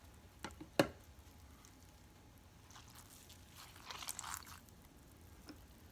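Wet clay being handled at a potter's wheel: a sharp tap or knock about a second in, then a soft wet squishing and rubbing around four seconds in.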